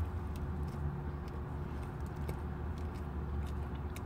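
Chewing a spicy chicken sandwich with mouth open, scattered soft wet clicks of the mouth, over a steady low hum inside a car.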